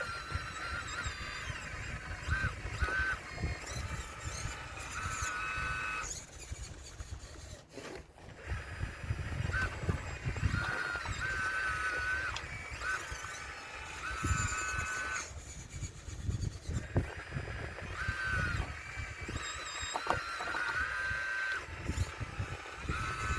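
RC model Caterpillar excavator's hydraulic pump whining in short, repeated spurts as the boom and bucket move, with knocks and rumbles of stones being broken from a wall.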